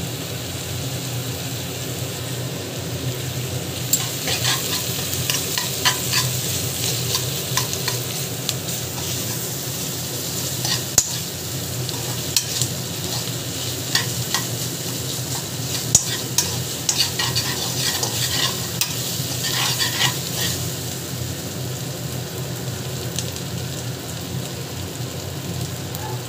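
Sliced onions and whole spices with ginger-garlic paste sizzling in oil in a pressure cooker, a spatula stirring and scraping against the pan. The scraping and tapping come from about four seconds in until about twenty seconds, with a couple of sharper knocks. The sizzle carries on steadily under them.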